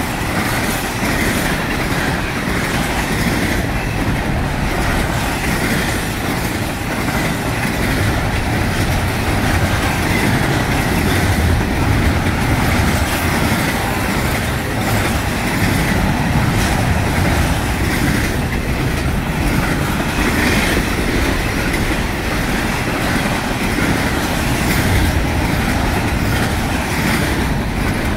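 Norfolk Southern intermodal freight train's container well cars and trailer flatcars passing close at about 60 mph: a steady, loud rumble and rush of steel wheels on rail, with a higher hiss above it.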